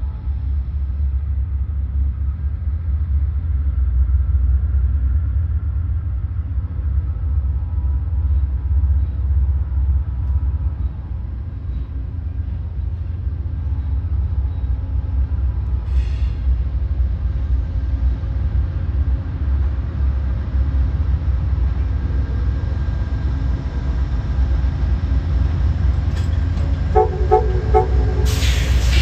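A steady, loud low rumble from the Amtrak Crescent passenger train running. Near the end come a few short tones repeated quickly, then a sudden rush of noise.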